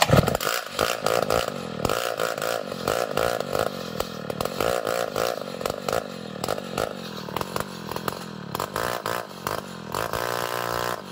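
Chainsaw engine running under load while cutting ulin (Borneo ironwood), its pitch wavering up and down, with frequent rattling clicks.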